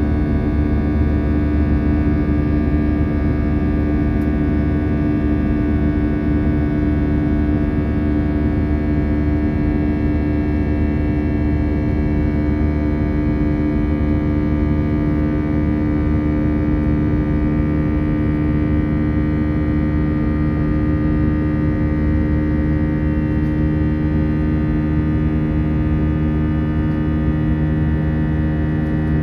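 Airbus A319 cabin noise in flight: the jet engines and airflow make a steady drone with many layered steady tones, a few of them edging slightly upward in pitch near the end.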